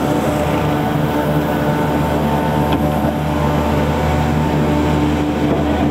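Sewer-cleaning truck's engine and high-pressure pump running with a loud, steady drone.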